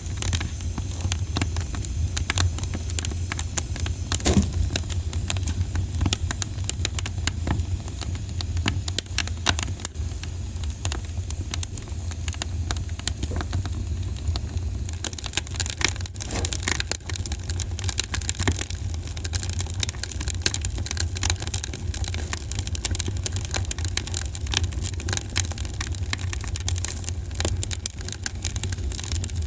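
Campfire crackling: a dense, irregular run of sharp pops and snaps over a steady low rumble, with one louder pop about four seconds in.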